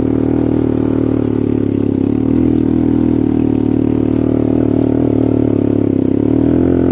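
ATV (quad bike) engine running at a steady speed, its pitch wavering slightly up and down.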